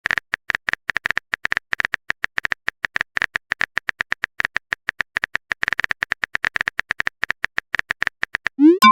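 Rapid keyboard typing clicks, many a second and each one alike, the typing sound effect of a chat message being written. Near the end there is a short rising swoop.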